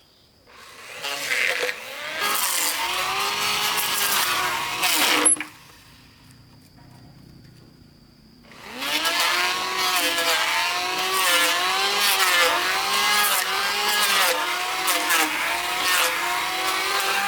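A motor runs with its pitch rising and falling as if under changing load. It stops abruptly about five seconds in and starts again about three seconds later.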